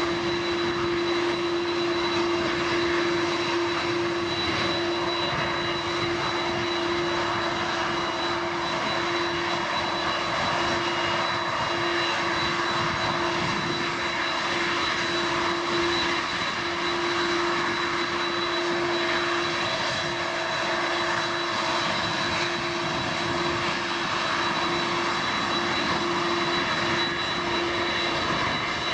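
Airbus A330-200's General Electric CF6-80E1 turbofans running steadily at taxi power: an even jet rush with a steady high tone and a lower hum, holding level without spooling up.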